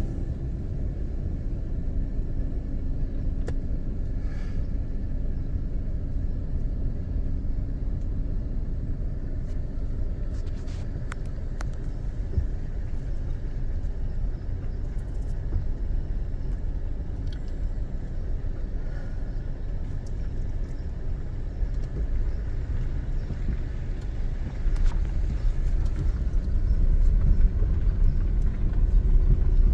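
A car driving, with steady low road and engine rumble that grows louder near the end.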